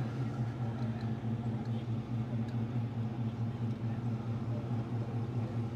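A steady low rumble of an idling engine, pulsing quickly and evenly.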